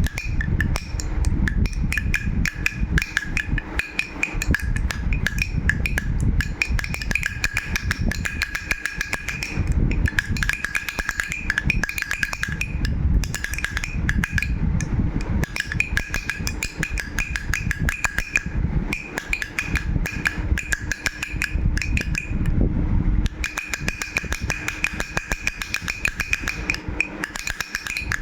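A baby rattle shaken fast and continuously, a dense stream of rattling clicks with a couple of short lulls, over a faint two-note ringing.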